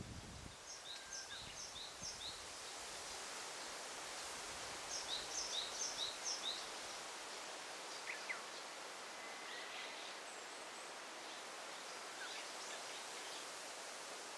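Forest ambience: a steady rustling hiss, with a small bird singing a quick run of four or five high repeated notes twice, about a second in and again around five seconds in, and a few scattered single chirps later.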